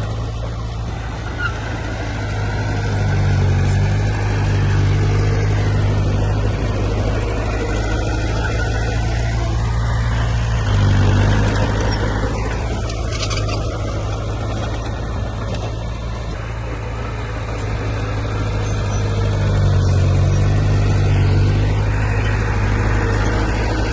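Heavy diesel engine of earthmoving machinery running steadily, its note swelling under load a few times: about three seconds in, around eleven seconds, and again near twenty seconds.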